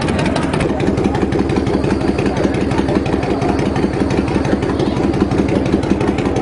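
Motorcycle engine running at idle, a steady rapid pulsing throughout.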